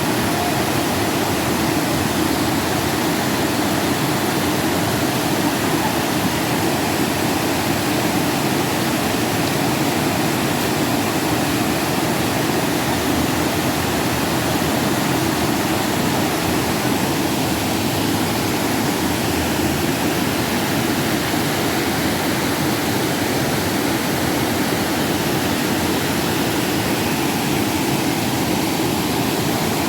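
Rushing river water: a steady, unbroken rush.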